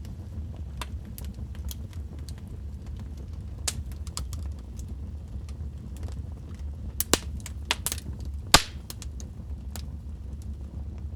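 Wood fire crackling in a fireplace: a steady low rumble of flames under scattered sharp snaps and pops. The pops bunch up after about seven seconds, the loudest one near the end of that run.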